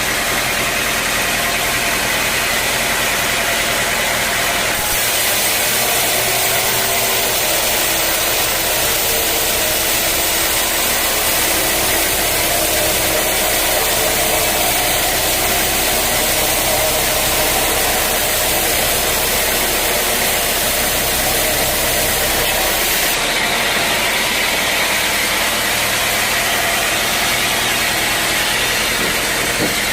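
Sawmill running steadily while sawing a teak log. The sound turns brighter and hissier from about five seconds in until about twenty-three seconds in.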